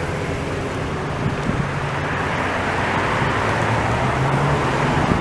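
Road traffic noise with a truck's engine running close by, a steady low hum that grows slightly louder.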